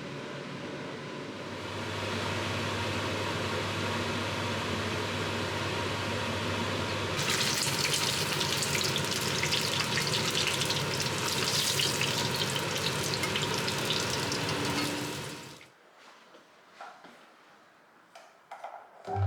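A steady machine hum, then water running hard from a kitchen tap for about eight seconds over it. The water and hum stop together, leaving a few light clicks and knocks.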